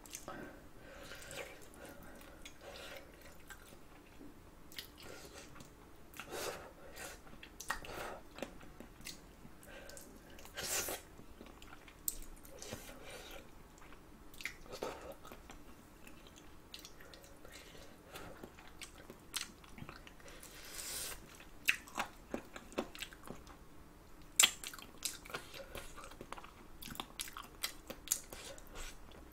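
Close-miked chewing and biting of spicy braised chicken feet, gnawing the skin and cartilage off the bones: irregular small clicks, one after another.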